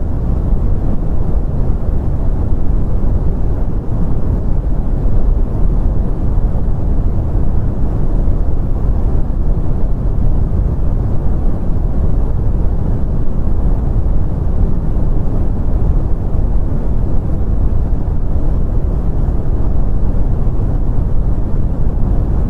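Continuous brown noise: a steady, deep rumbling hiss with its energy concentrated in the low end and little above the midrange, unchanging throughout.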